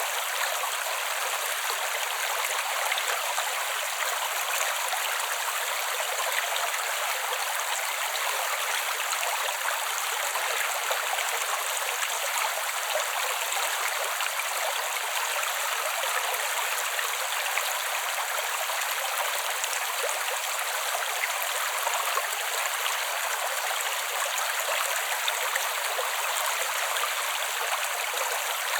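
Creek water running over rocks, a steady babbling rush with its energy in the middle and high range and no low rumble.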